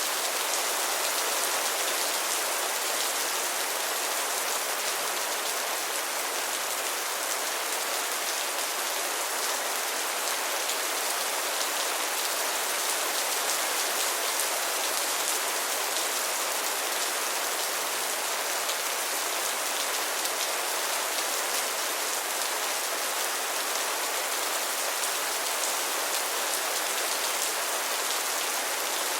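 Heavy rain falling steadily, a dense even hiss of drops pattering on surfaces, without thunder.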